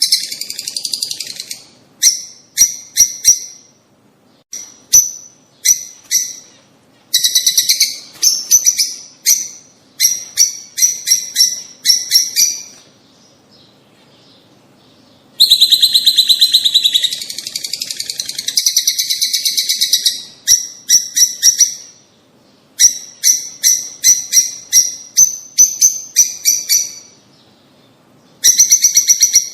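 Rosy-faced lovebirds giving shrill, sharp chirps in quick runs with short pauses between, breaking into a dense, continuous bout of chattering about halfway through.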